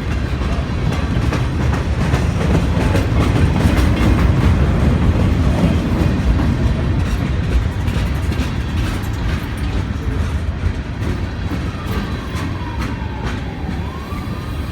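A train passing on the tracks: a steady rumble of wheels on rail with repeated clicking as the wheels cross rail joints, loudest about four seconds in and easing off after. Near the end a siren wails faintly in the background.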